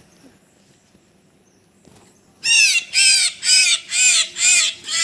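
Common myna giving a rapid series of loud, repeated calls, about two a second, starting about halfway in.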